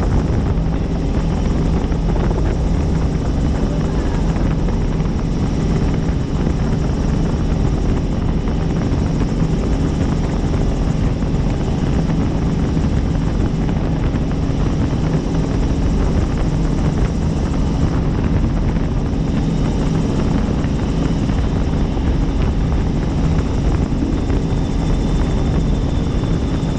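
Helicopter in steady flight: its rotor and engine run at an even level, a constant dense sound with a steady low hum and no change in pitch.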